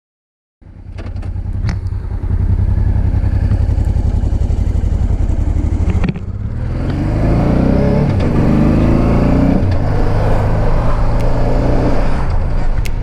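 Motorcycle engine running under way, a dense low rumble that cuts in abruptly about half a second in, dips briefly midway, then rises in pitch as the bike accelerates.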